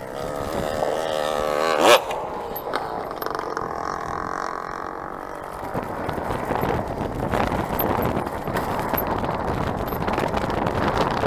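Motorcycle engine revving with a wavering pitch, climbing to a sharp, loud peak about two seconds in and then dropping away; from about six seconds in, an engine runs steadily again.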